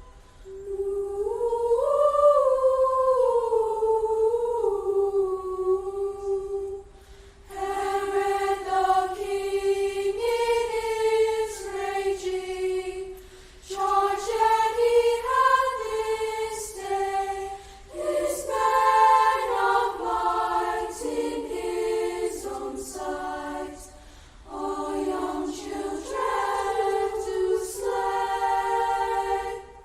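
A school choir singing a cappella: long held notes in phrases, with short breaks for breath between them.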